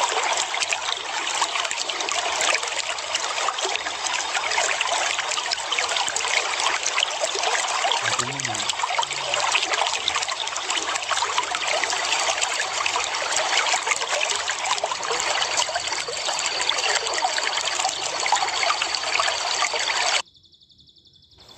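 Steady trickling, splashing water noise that cuts off suddenly near the end, with a faint thin high tone running under it for its last few seconds.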